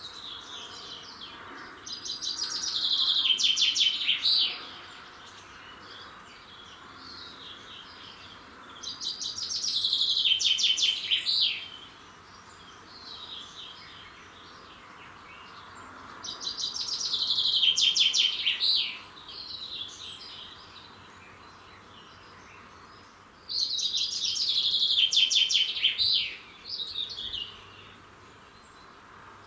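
A songbird singing the same loud trilled phrase four times, about every seven seconds, each phrase lasting two to three seconds, with fainter calls from other birds in between.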